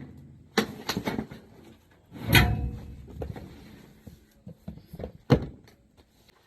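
Knocks and clunks of hard parts being handled while an HVAC unit is put back together. The loudest clunk comes about two seconds in with a brief ring, and another sharp knock comes near the end.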